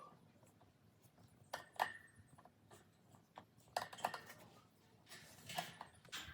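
Stand fan parts and packaging being handled during unboxing: scattered light clicks and knocks, with a short rustle near the end.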